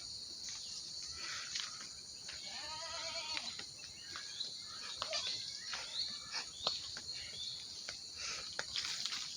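A goat bleats once, a short wavering call about two and a half seconds in, over a steady high-pitched hiss and scattered small clicks.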